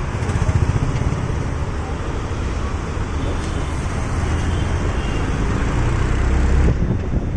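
Steady engine rumble and road noise from inside a moving auto-rickshaw.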